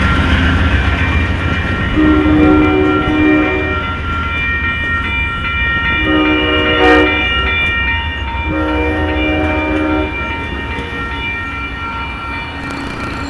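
Amtrak Coast Starlight locomotive sounding its multi-chime horn three times, each blast a second or so long, as the train rolls into the station over a steady low rumble. Thin high squealing tones from the wheels run underneath.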